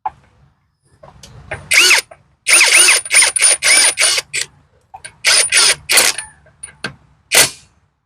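Half-inch cordless brushless impact wrench run in a series of short bursts, loosening nuts. Its motor whines up and down with each trigger pull, and the anvil hammers in between.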